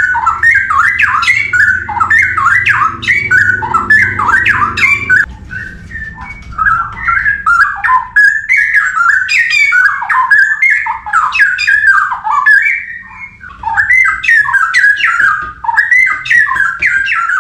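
Straw-headed bulbul (cucak rowo) singing: a continuous run of rapid, loud warbled phrases that sweep up and down in pitch, with brief lulls about six and thirteen seconds in.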